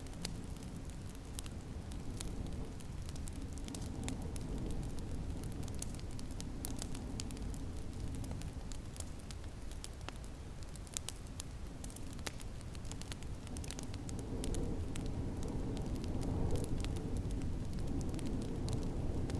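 Wood fire crackling in a fireplace, with frequent sharp pops over a low steady rumble of storm wind that swells a little about three-quarters of the way through.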